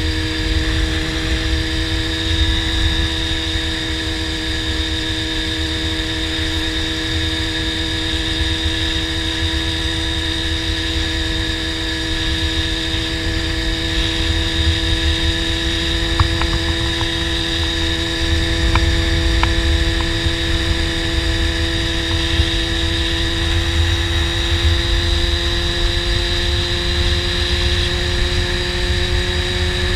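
Honda CBR600 inline-four sport bike engine with a slip-on exhaust, cruising at a steady throttle. The engine note holds a constant drone that slowly rises in pitch, over a heavy low rumble of wind on the helmet-mounted microphone.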